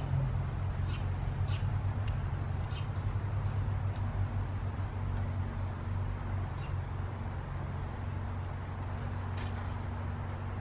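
A 13-horsepower pressure washer's engine running steadily, with a few short high chirps over it.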